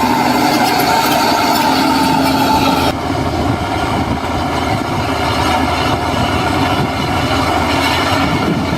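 Heavy diesel construction machinery running steadily, the engine note changing abruptly about three seconds in.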